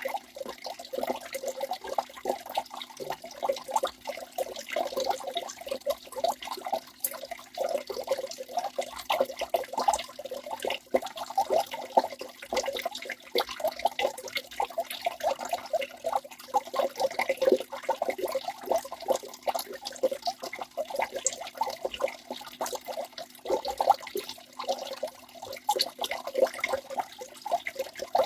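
Waterfall: water rushing and splashing continuously, a dense, irregular churn of splashes and gurgles with no pauses.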